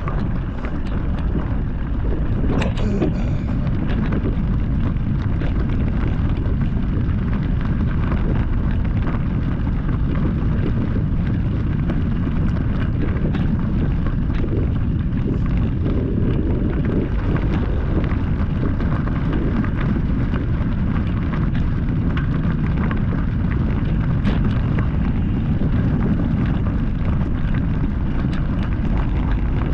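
Wind buffeting the microphone with the steady rumble of riding over rough dirt and rock, broken by a few sharp clicks and rattles.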